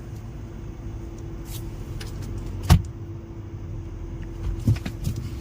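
Steady low hum inside a car, with one sharp click about halfway through and a softer click near the end.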